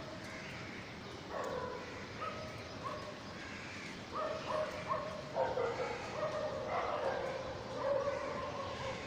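Parrot chicks giving repeated whining food-begging cries, short calls steady in pitch. They start about a second and a half in and come more often from about four seconds in.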